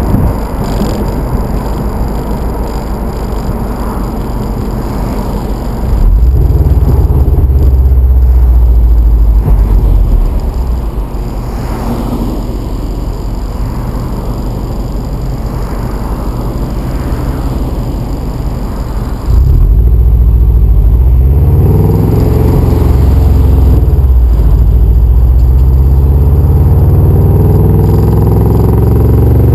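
Exhaust of a Subaru EJ25D 2.5-litre flat-four, breathing through an unequal-length header, high-flow cat and 2007 STi muffler, under driving. It runs at part throttle, gets louder about six seconds in and eases off again. Past the middle it pulls hard twice, the pitch climbing with the revs each time, with a brief dip between the two pulls.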